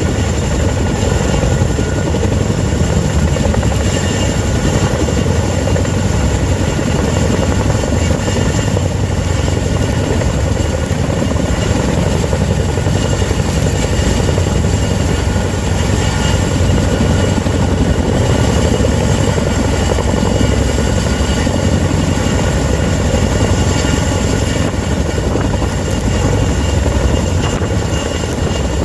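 Helicopter running close by: a loud, steady rotor and engine noise with a thin high whine over it.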